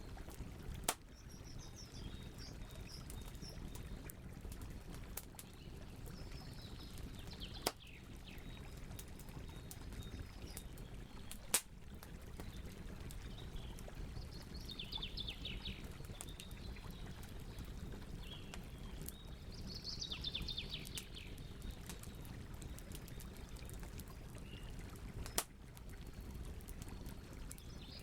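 Campfire burning with a steady hiss and crackle, and four sharp pops. Birds chirp in short bursts of calls several times in the background.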